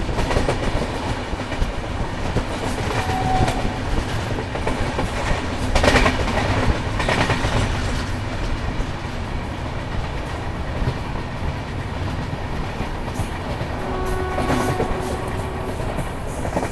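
Double-decker express passenger train running at speed, heard from its open coach doorway: a steady rumble of wheels on the rails, with two sharp clicks of the wheels over rail joints about six and seven seconds in.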